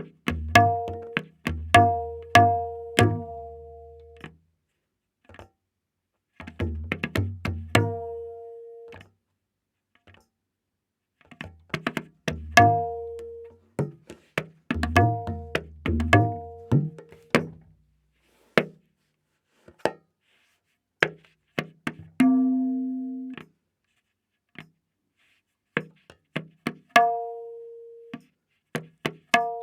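Tabla playing a slow vilambit ektaal theka, with the dayan tuned to A#. Ringing dayan strokes and deep bayan strokes come in sparse clusters with long gaps between them, and one bayan stroke about 22 seconds in is held with a sliding pitch.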